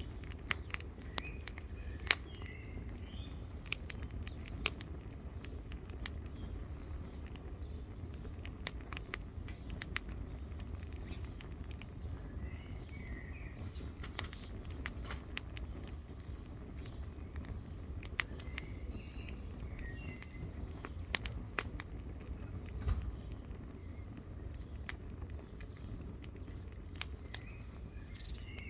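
Campfire of wood crackling and popping irregularly over a low steady rumble, with one loudest pop about two seconds in. A few birds chirp briefly at several points.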